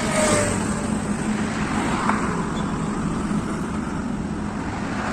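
Road vehicles driving past at speed: a steady mix of engine hum and tyre noise.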